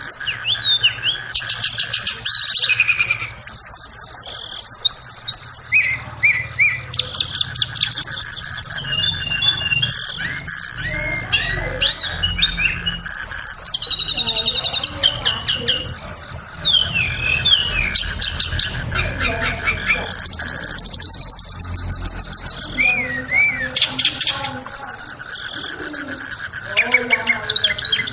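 Tledekan songbird singing continuously: a fast, varied run of high whistled phrases, trills and rapid ticking rattles, with barely a pause. A faint steady tone and a low hum sit underneath.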